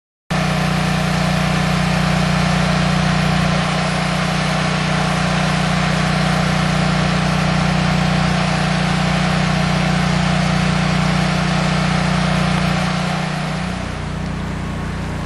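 A steady engine hum under a strong hiss, cutting in suddenly just after the start and dropping a little in level near the end.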